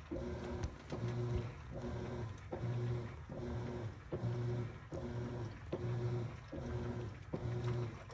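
Top-load washing machine agitating, its motor humming in even strokes a little under a second apart, each one starting with a click.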